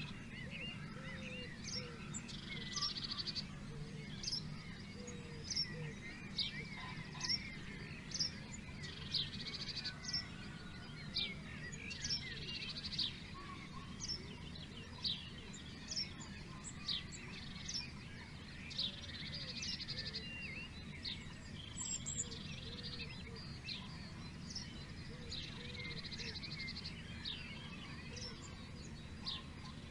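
Several songbirds singing together: many short, sharp, falling chirps, with a buzzy trill repeated every few seconds. A steady low rumble runs underneath.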